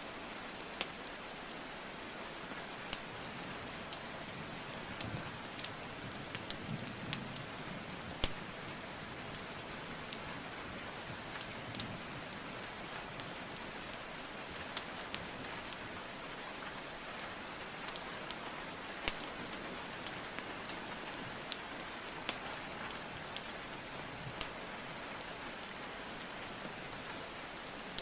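Steady rain hiss with a wood fire crackling over it: irregular sharp pops and snaps of burning logs, a few each second.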